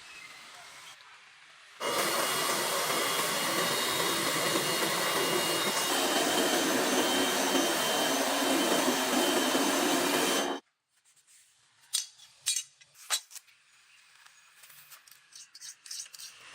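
A power tool running steadily for about nine seconds, starting and stopping abruptly, followed by a few sharp clicks.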